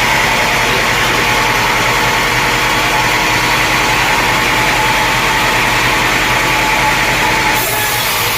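Sawmill engine running steadily, with a steady whine over it; the sound changes abruptly near the end.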